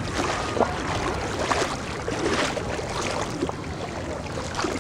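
Floodwater splashing and sloshing in irregular short splashes, over a low wind rumble on the microphone.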